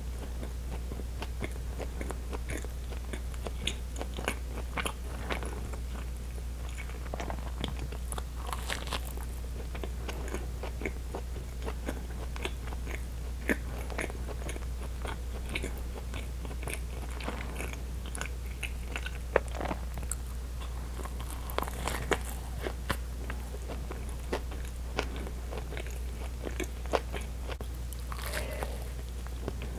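Close-miked chewing of soft bread: wet mouth clicks and small crunches of the crust, with a fresh bite near the end, over a steady low hum.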